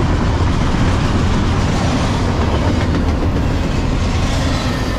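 CSX double-stack intermodal freight train passing close by at speed: a loud, steady noise of steel wheels on the rails and the well cars running past.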